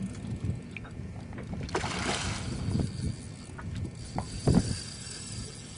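Small boat on the water, with irregular low knocks and a short swell of sloshing about two seconds in.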